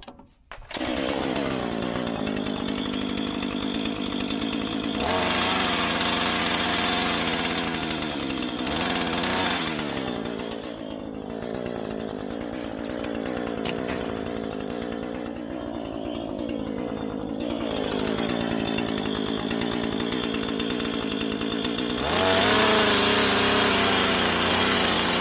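A mains-powered electric power tool starts up and runs under load, its motor pitch sagging and recovering again and again as it cuts. It gets louder about five seconds in and again near the end.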